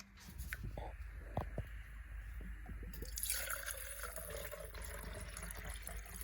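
Water dripping in a few small plops, then trickling steadily from about three seconds in.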